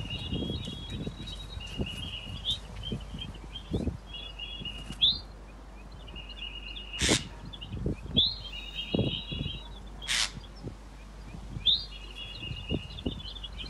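Small birds chirping in repeated short, rapid chattering phrases, high in pitch, every second or two. Two short sharp sounds stand out about seven and ten seconds in, over soft low thumps.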